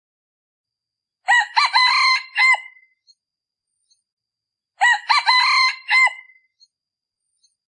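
Male decoy junglefowl rooster crowing twice, about three and a half seconds apart: each crow is a full multi-part cock-a-doodle-doo of about a second and a half. This is the call used to lure wild junglefowl.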